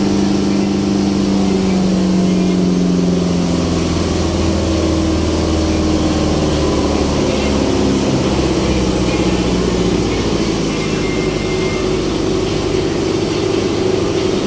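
Pasig River ferry boat's engine running steadily while under way, its note shifting lower about four seconds in.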